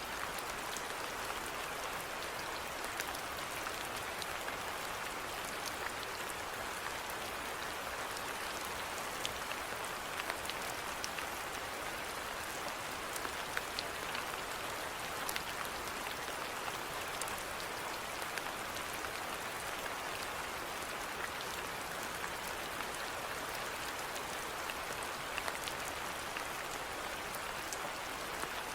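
Steady rainfall with scattered individual drops ticking on a surface.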